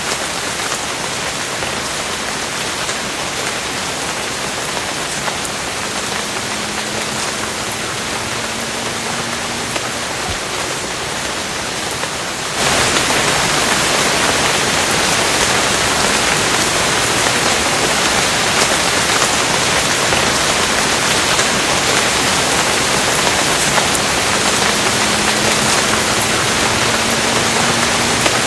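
Steady rain falling as an even hiss. About halfway through it cuts abruptly to a louder, brighter stretch of rain.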